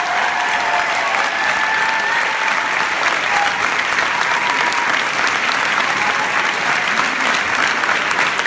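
Concert audience applauding steadily, with a few voices calling out over the clapping.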